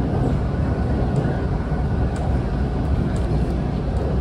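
Steady low rumble of a train running at speed, heard from inside the carriage, with a few faint light ticks.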